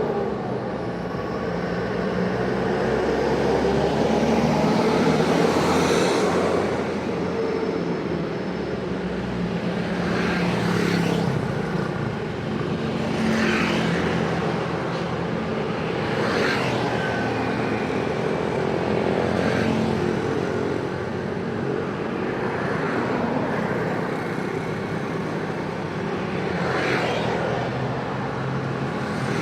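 Busy road traffic: engines running steadily, with one vehicle after another passing close by every few seconds.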